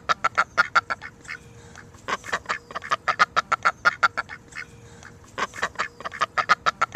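Duck quacking in fast runs of short, harsh quacks, several a second, with brief pauses between runs.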